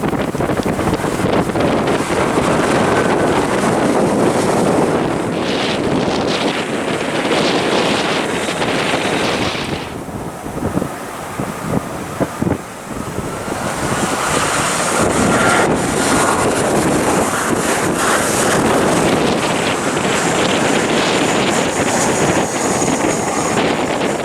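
Strong wind buffeting the microphone over the noise of jet airliner engines, with a high engine whine coming in just past halfway.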